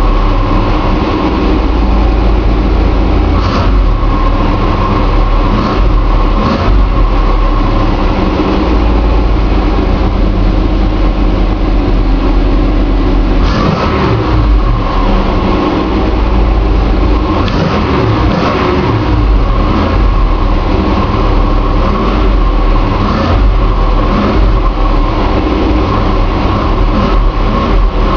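Chevy 454 big-block V8 running loud, heard from inside the cab, with a few brief revs about halfway through.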